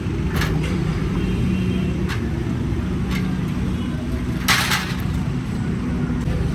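Busy street ambience: a steady low rumble of traffic, with a few short clatters, the loudest about four and a half seconds in, and faint voices.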